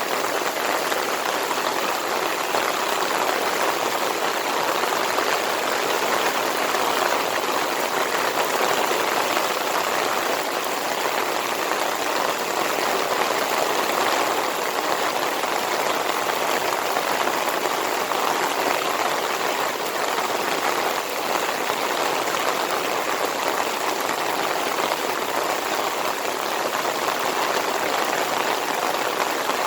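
Heavy monsoon rain pouring steadily: a dense, even hiss of falling rain that holds at the same level throughout.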